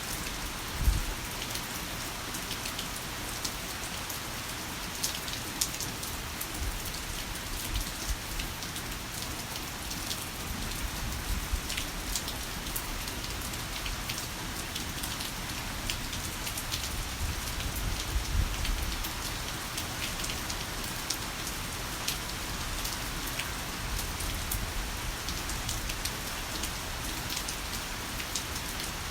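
Heavy rain falling steadily, a dense hiss full of sharp individual drop hits. A low rumble of distant thunder swells and fades in the background past the middle.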